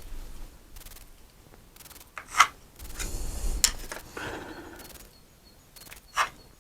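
Pencil drawn across a wooden board's edge in a few short scratchy strokes, marking out biscuit-joint positions, with faint handling clicks.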